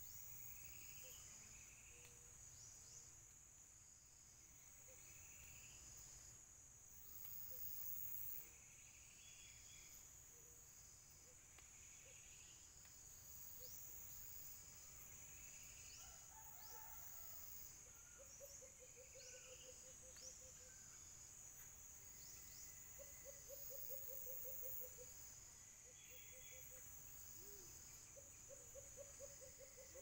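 Faint forest ambience: a steady high-pitched drone of insects, crickets or cicadas. Over it, a bird repeats a short call about every two seconds, and a low, rapid series of notes, each lasting about two seconds, comes three times in the second half.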